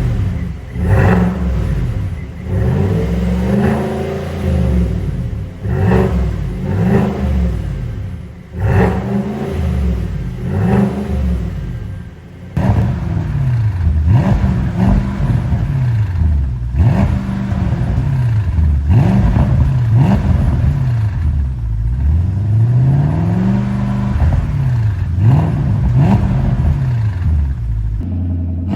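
V8 engine with a tuned aftermarket exhaust being revved over and over, the pitch climbing and falling again every second or two. There are brief drops in level about a third and halfway through, where the revving breaks off and starts again.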